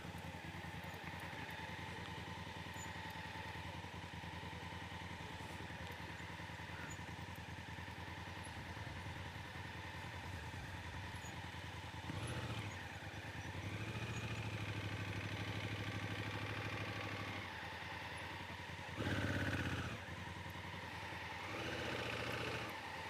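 Motorcycle engine running steadily under way, with a few swells where the pitch and level rise and fall briefly, as with throttle changes.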